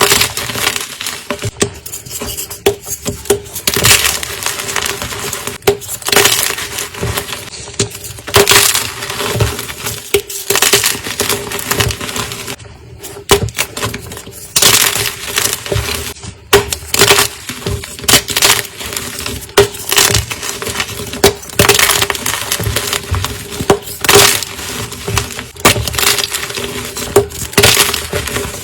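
Blocks of gym chalk being crushed: crisp, crunchy cracking and crumbling that comes in a new burst every second or two.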